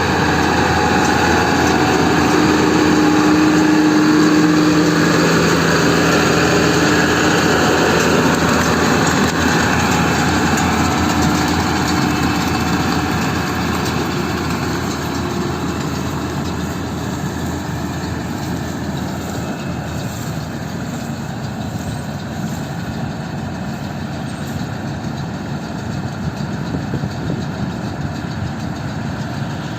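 YTO-1304 tractor's diesel engine running steadily. It is loudest in the first few seconds with a clear engine hum, then eases off a little over the next ten seconds and holds level.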